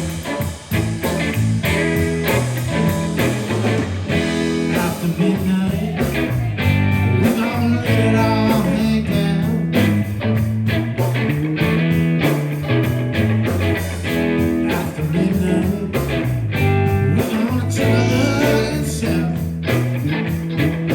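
Live blues-rock band playing, with guitar to the fore over a moving bass line and a steady drum beat.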